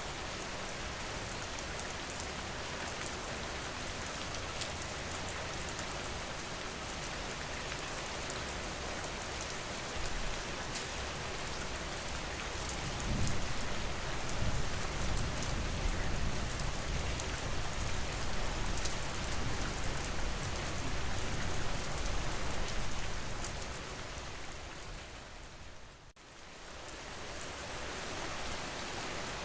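Steady rain falling, an even hiss of drops. A deeper low rumble swells in for about ten seconds in the middle. Near the end the rain fades down briefly and comes back up.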